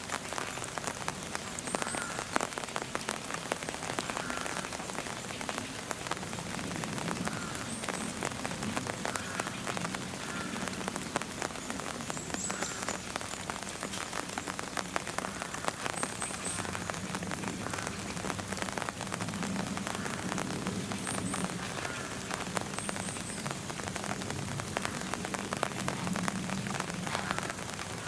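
Steady rain falling, a dense patter of raindrops on surfaces, with faint high chirps recurring every few seconds.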